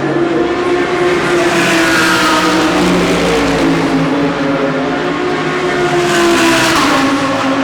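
GT3 race cars passing at speed on a circuit, several engine notes overlapping and sliding in pitch as they go by, with a louder pass around six to seven seconds in.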